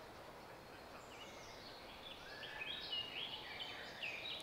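Wild songbirds singing: a run of short, clear whistled notes over a faint background hush, mostly from about a second and a half in.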